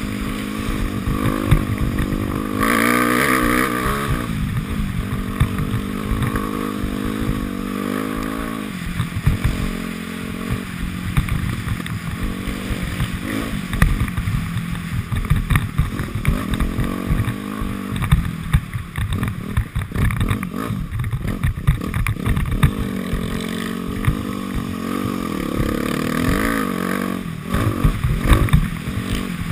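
Dirt bike engine revving up and down as it is ridden hard over rough ground, its pitch rising and falling with the throttle. Wind buffets the microphone.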